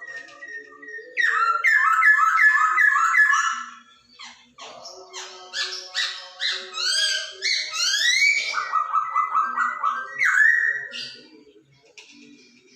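Poksay Hongkong (laughingthrush) singing loud whistled phrases: a run of quick repeated rising notes from about a second in, then after a brief pause a longer varied phrase of rising slurred whistles, ending in a lower rapid trill that fades near the end.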